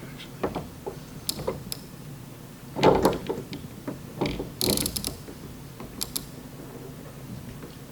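Irregular metal clicks and knocks of a K-beam bridge lifter being set across the panel and fitted to a glued pull tab, with a louder clunk about three seconds in and a short scrape just before five seconds.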